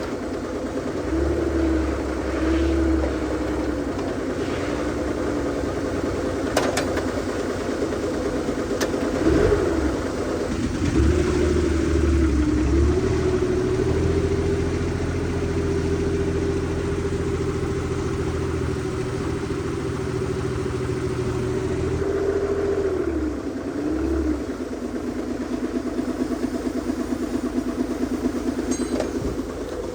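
An engine running, revving up about ten seconds in and holding the higher speed for roughly ten seconds before dropping back to idle.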